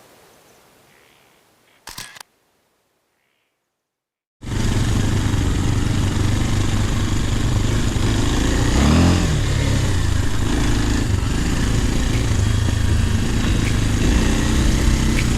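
Faint hiss, a brief loud burst about two seconds in, then a couple of seconds of dead silence. After that an enduro motorcycle engine runs loud and steady under way, its revs rising and falling once near the middle.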